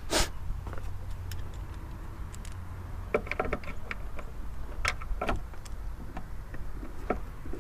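Irregular light clicks and taps of screws and a screwdriver being handled as the tail light assembly's mounting screws are put back in, with a few brief metallic rings.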